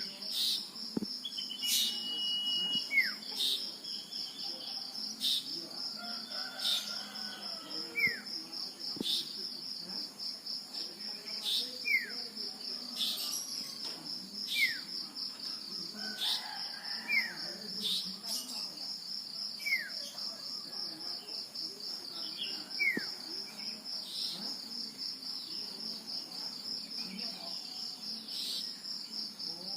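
Male common iora (sirtu/cipo) calling: short downslurred notes with sharp clicks, repeated every two or three seconds, with one held whistle early on. An insect trills steadily and high underneath.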